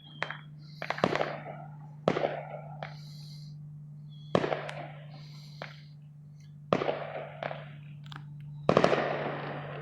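Fireworks going off: about six sharp bangs a second or two apart, each followed by crackling and hissing, with the heaviest burst of bangs near the end.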